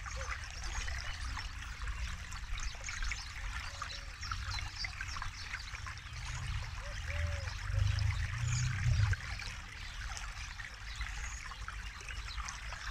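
River water babbling and trickling over stones, a steady splashing hiss. A low rumble under it swells briefly about eight seconds in.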